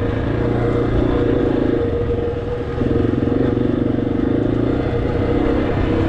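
Motorcycle engine running under way, with a steady rushing noise behind it; the engine note eases off briefly about two seconds in and picks up again a second later.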